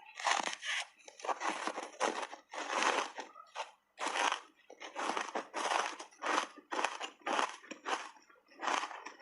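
Frozen blueberry block ice being crunched and chewed in the mouth, a quick run of crunches about two a second.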